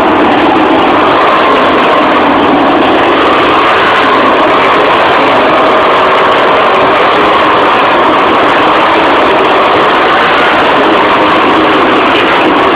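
Craftsman lawn tractor's small engine running steadily at a constant speed, loud and close.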